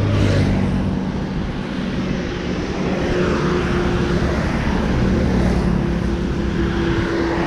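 Steady engine drone and road and wind rush of a two-wheeler riding along a highway, with a steady hum joining about three seconds in.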